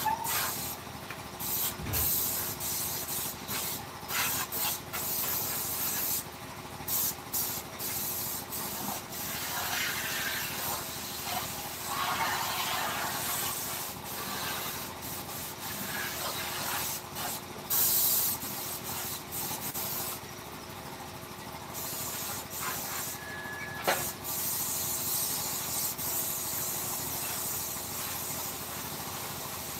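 Irregular rubbing and rasping strokes from hand work on a wooden carving, over a faint steady hum.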